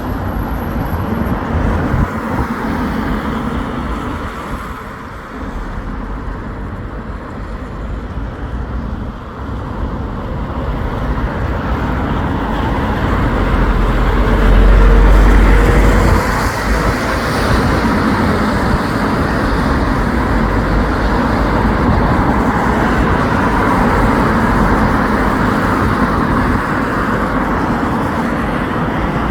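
Road traffic passing on a street: a steady mix of engines and tyre noise. It is loudest about halfway through, when a vehicle passes close with a deep low sound and a faint rising engine note.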